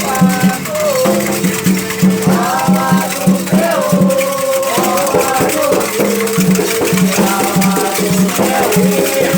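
Candomblé ritual song for Xangô: voices singing a call-and-response melody over a steady hand-drum beat, with a rattle shaking throughout.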